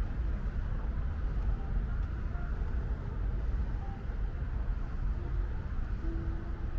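Steady low rumble of distant road traffic, with a soft hiss of light rain over it.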